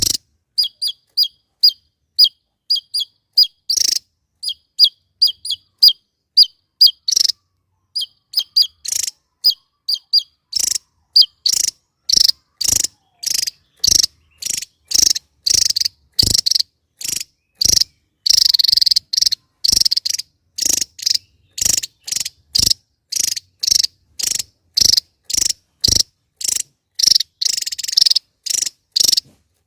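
Javan tesia calling: a long run of short, sharp, high notes, about two a second. From about ten seconds in the notes turn harsher, buzzier and louder.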